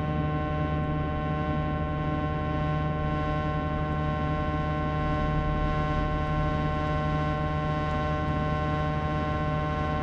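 Sharp AY-J40S-W air conditioner giving off a steady whining hum made of several tones at once, unchanging throughout. It is the abnormal noise that repeated warranty repairs have not cured, which the repairers put down to a frequency fault.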